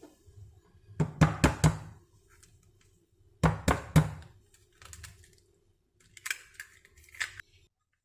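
Two quick runs of three sharp knocks about two seconds apart, then a few lighter, slightly ringing taps near the end.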